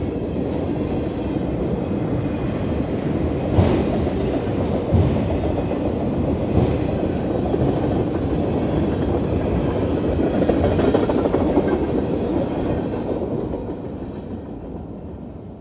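Freight train cars rolling past a grade crossing: a steady rumble of steel wheels on rail with a few sharp clanks, fading away near the end as the last car passes.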